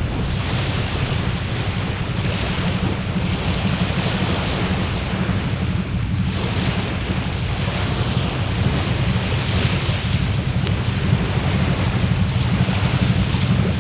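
Wood fire burning in an open fire pit: a steady rushing noise over a low rumble, with a constant thin high tone and a single faint crackle near the end.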